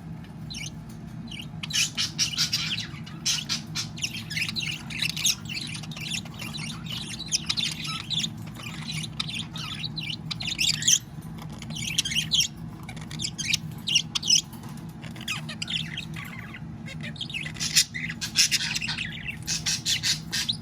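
Budgerigar chattering and warbling in quick, irregular chirps and squawks, the courtship chatter of a male budgie to his mate, over a steady low hum.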